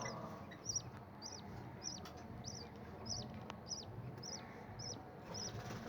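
Budgerigar chick making begging calls while being fed by its mother: short, high cheeps repeated steadily, about two a second.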